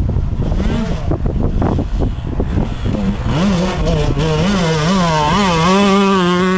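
KTM 125 EXC's single-cylinder two-stroke engine running under throttle. It is rough and noisy for the first few seconds, then its pitch swings up and down repeatedly with the throttle before holding at a steady high rev near the end, where it cuts off suddenly.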